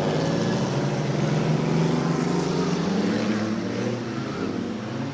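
Dirt-track race car engines running and revving, one engine's pitch climbing slightly and then easing off about three seconds in.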